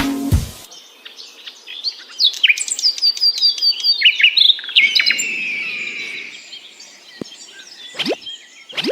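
Birds chirping in quick runs of high calls and a longer falling whistle, after a music track cuts off about half a second in. Near the end come a few short rising sweeps.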